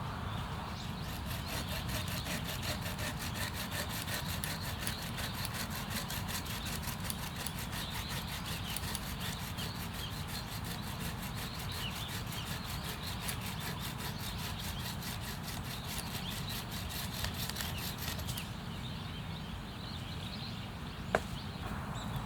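A hand saw cutting through wood with steady, repeated scraping strokes, stopping a few seconds before the end, followed by a single sharp click.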